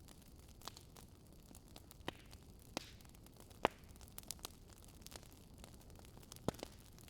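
Wood fire crackling quietly: a low steady hiss with scattered sharp pops, the loudest about halfway through and a quick pair near the end.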